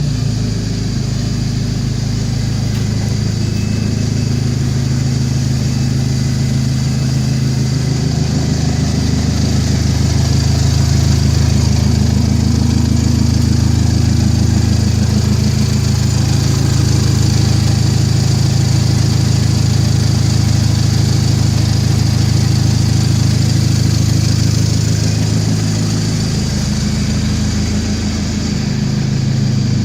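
Audi TT's 1.8-litre turbocharged four-cylinder engine idling steadily, its note rising slightly about eight seconds in and shifting briefly near the end.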